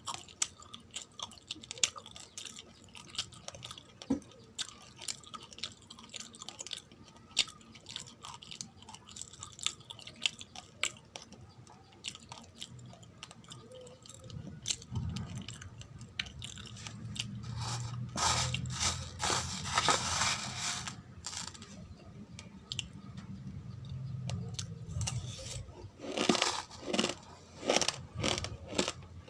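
Close-up chewing and crunching of dry uncooked rice grains: many sharp crackles and cracks as the hard grains are bitten and ground, denser and louder from about two thirds of the way in.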